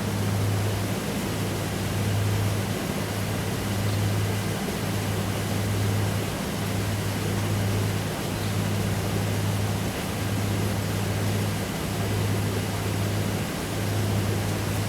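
A vehicle engine idling with a low hum that dips about once a second, over steady outdoor noise.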